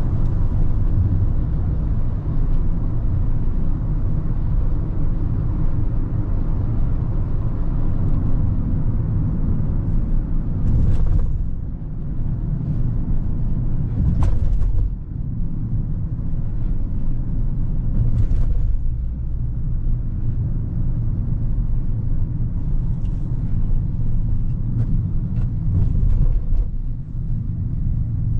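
Low, steady in-cabin rumble of a 2024 Hyundai Creta petrol SUV on the move: engine and road noise. A few short knocks come through, about 11, 14 and 18 seconds in.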